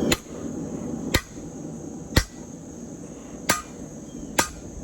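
Hand hammer striking a steel drift to drive it into the eye of a hot hammerhead, five sharp ringing blows about a second apart.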